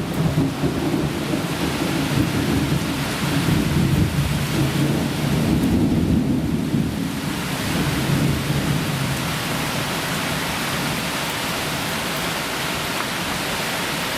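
Thunder rolling and rumbling over heavy rain in a strong thunderstorm. The rumble dies away about two-thirds of the way through, leaving the steady hiss of heavy rain.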